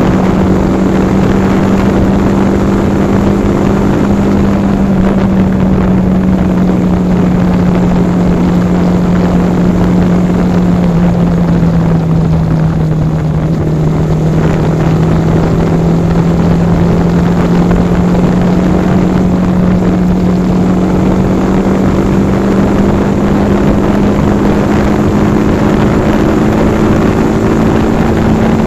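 Yamaha R15 V4's single-cylinder engine running steadily at cruising speed, its pitch sagging a little midway and rising again near the end, over a steady rush of noise.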